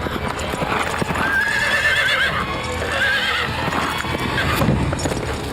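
Horses' hooves clattering while a horse neighs twice, a wavering high whinny about a second in and a shorter one around three seconds.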